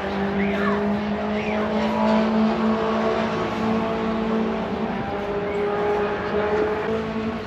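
A large engine running at a steady pitch, its note dipping slightly a little past the middle and rising again near the end.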